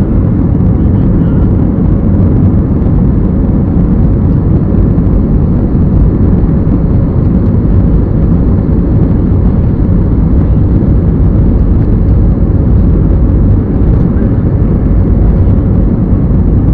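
Steady, loud drone of an airliner in flight heard from inside the passenger cabin: jet engines and rushing air, with a faint steady hum.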